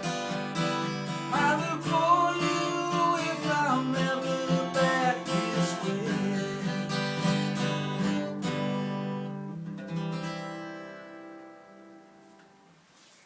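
Acoustic guitar strumming through the song's closing bars, with a wavering melody line above it in the first few seconds. The last chord rings out and fades away about ten seconds in.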